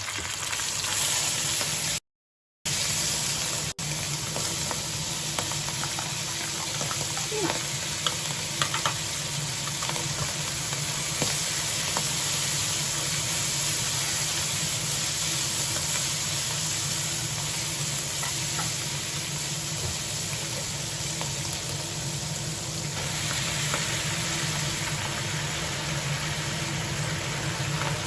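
Indian lettuce with fried dace in black beans stir-frying in a wok: a steady sizzle with occasional light spatula clicks, over a steady low hum. The sound cuts out completely for about half a second around two seconds in.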